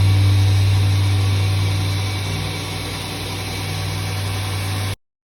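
A machine running steadily, a strong low hum under a loud rushing noise, cut off abruptly about five seconds in.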